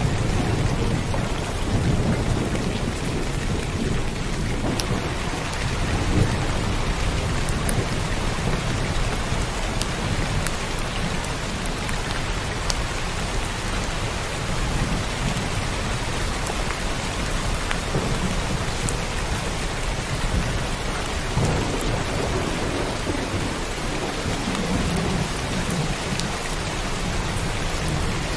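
Heavy rain falling steadily, with a low rumble of rolling thunder underneath that swells a few times.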